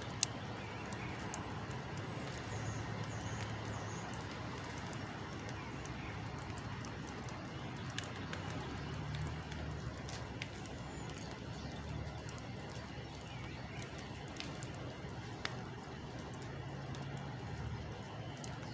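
A large engine running at a distance: a low hum that swells and eases several times over steady background noise, with a few faint sharp clicks.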